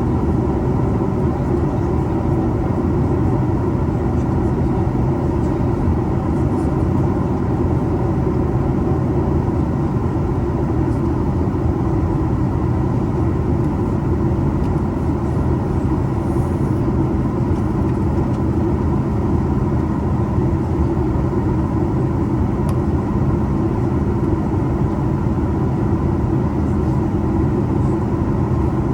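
Steady drone of a Boeing 737 MAX 8's CFM LEAP-1B engines and rushing air as heard inside the cabin, heaviest in the low range, with faint steady whine tones above it and no change in level.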